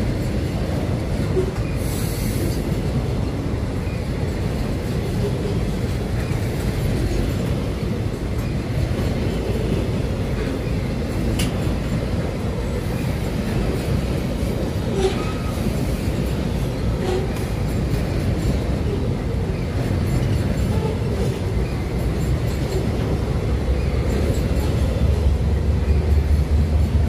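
Freight train of covered hopper wagons rolling past on the rails: a steady rumble of steel wheels with occasional sharp clicks and brief wheel squeals. The low rumble grows louder near the end.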